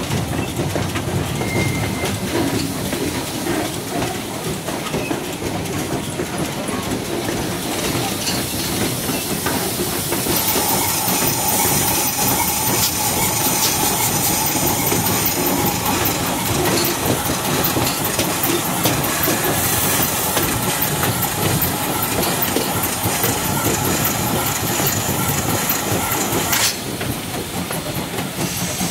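Steam-hauled passenger train rolling along the track, its wheels clattering over the rails. A steady hiss joins in about ten seconds in and cuts off suddenly near the end.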